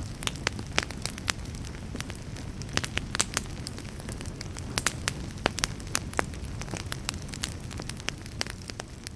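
Campfire crackling: irregular sharp pops and snaps over a low steady rumble of burning flames, growing slightly quieter near the end.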